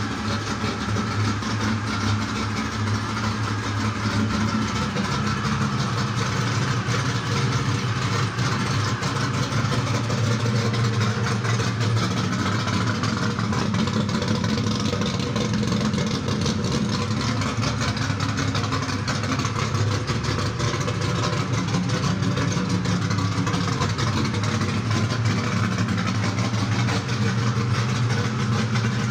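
Chevrolet Camaro's LS3 V8 engine idling steadily.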